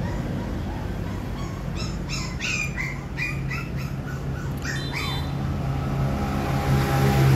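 Birds chirping: a quick run of short rising and falling calls over a steady low hum that grows louder near the end.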